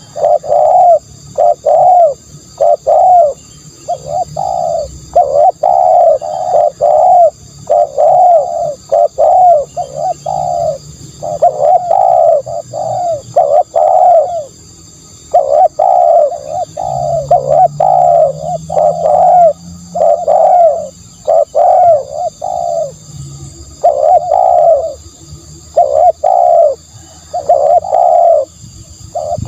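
Spotted dove cooing: a loud, steady series of soft low coos, about two to three notes a second, in runs of several notes broken by short pauses. It is a dove's call used as a decoy call.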